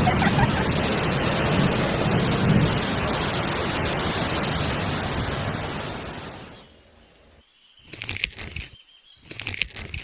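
Steady hiss of rain-like water falling on loose soil, fading out about six to seven seconds in. Two brief sounds come near the end.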